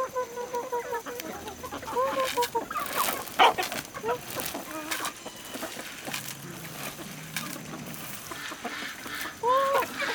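Chickens clucking and calling, short pitched calls coming every couple of seconds, with scattered light clicks and knocks between them.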